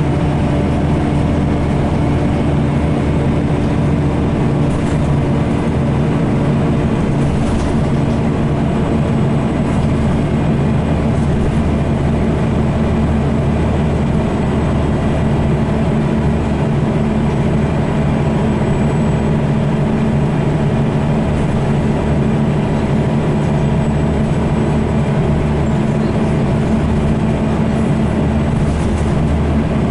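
Diesel engine of a Scania L94UB single-deck bus running steadily, a constant low drone with faint clicks and rattles now and then.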